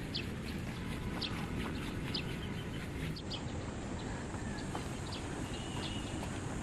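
Small birds chirping: short, sharp high chirps every half second or so, with a brief held note near the end, over a steady low rumble.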